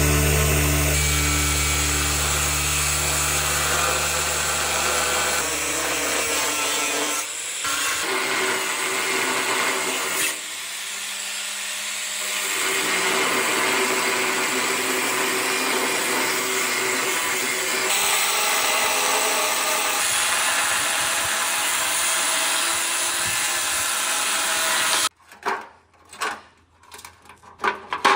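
A power tool running steadily on workpiece parts, cutting in and out in several stretches. Near the end it gives way to separate metallic clinks and knocks.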